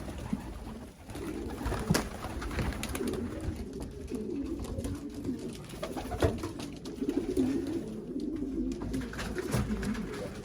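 Racing pigeons cooing continuously, many low wavering coos overlapping, with a few sharp knocks or clicks in between.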